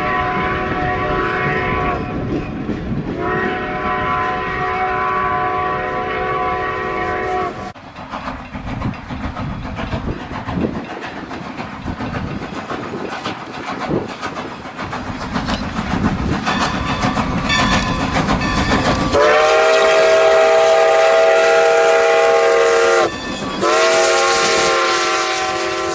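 A train sounding long blasts of a multi-note chime: two long blasts at the start, then the rumble and clatter of wheels on rail, then two more long, louder blasts near the end.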